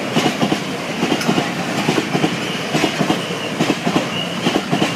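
Wagons of a loaded oil freight train rolling past a level crossing, their wheels clattering over the rail joints in quick groups of clicks about once a second over a steady rumble.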